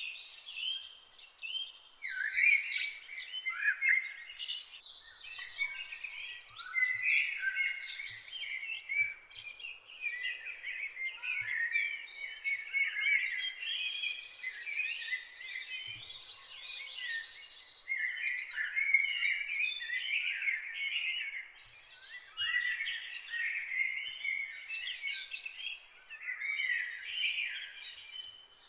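A dawn chorus of many songbirds singing and chirping at once, the short calls and warbles overlapping with no pause.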